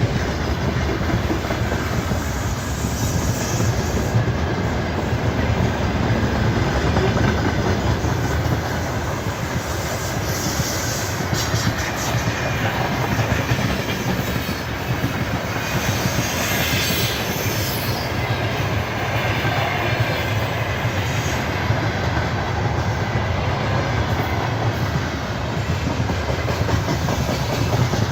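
Freight train wagons rolling past at speed: a steady, loud rumble of steel wheels on the rails with clickety-clack over the rail joints, and a brief higher hiss about two-thirds of the way through.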